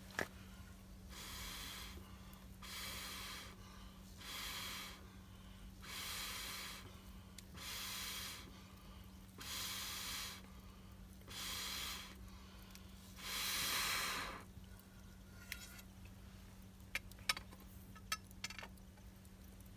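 Eight breathy puffs of blown air, about one every second and a half, the last one longest and loudest, followed by a few sharp clicks. The clicks are likely the campfire crackling.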